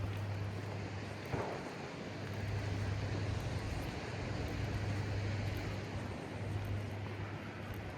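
Outdoor seaside ambience: a steady wash of wind and surf noise over a constant low hum, with one brief swish about a second and a half in.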